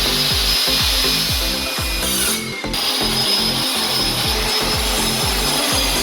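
A power tool cutting, a steady hiss that breaks off briefly about two seconds in and then resumes, over background music with a heavy thumping beat.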